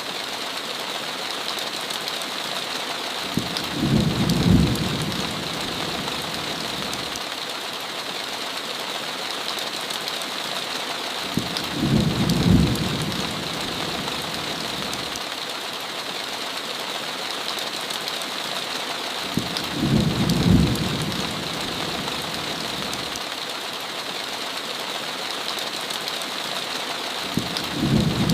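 Heavy rain falling steadily on a window, with a short low rumble of thunder about every eight seconds, four times.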